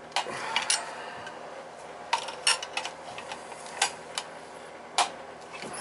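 Small metal tools and parts clicking and tapping, about seven sharp irregular clicks, as a boiler control is wired in, over a steady low hum.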